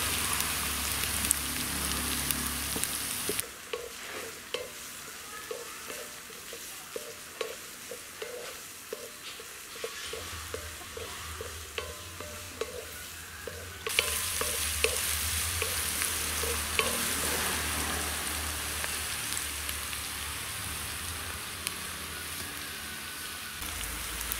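Chopped shallots and garlic sizzling in hot oil in a steel kadai, stirred with a wooden spatula. The sizzle drops out for about ten seconds after the first few seconds, leaving a quieter stretch with a run of short repeated low notes, then comes back and runs on.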